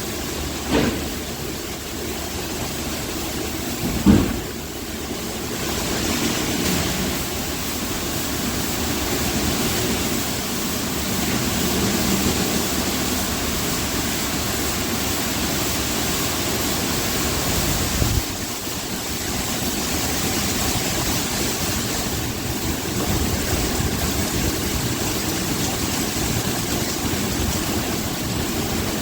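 Automatic car wash running: a steady rush of water spray and machine motors, broken by a few short thumps, one about 4 seconds in and another about 18 seconds in.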